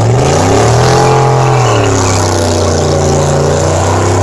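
Car engine revving hard: it climbs in the first second, holds high, dips, and climbs again before easing off near the end.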